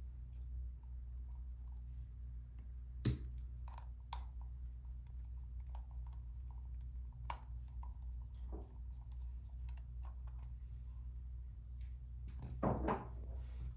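Scattered small clicks and light knocks from handling a Sony SELP1650 kit lens at a repair bench, the sharpest about three seconds in and a short cluster near the end, over a steady low hum.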